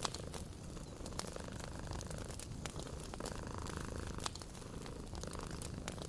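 A cat purring in a steady low rumble, over a wood fire crackling with scattered sharp pops.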